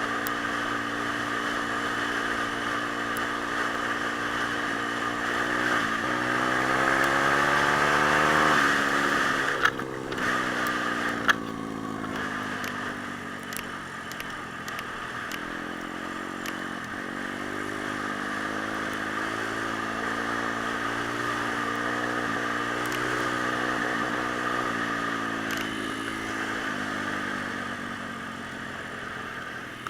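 Single-cylinder pit bike engine being ridden: the revs climb steadily for the first nine seconds, drop away, then rise and fall again several times. Two sharp knocks sound about ten and eleven seconds in.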